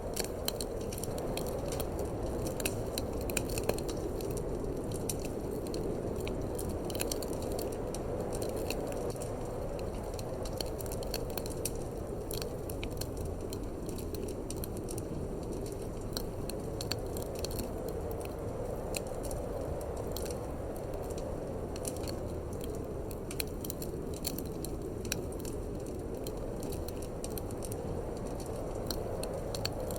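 Wood fire crackling in a fireplace, with frequent irregular sharp pops, over a steady low rush of wind.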